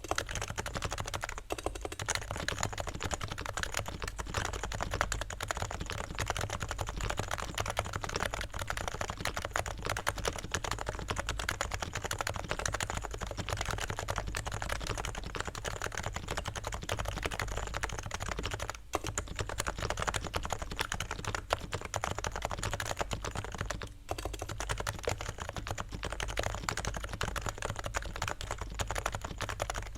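Continuous fast typing on a stock, unlubricated Realforce R3 TKL silent 45g keyboard, with its Topre electrostatic capacitive switches making a dense stream of soft key presses and rattles. The typing pauses briefly twice.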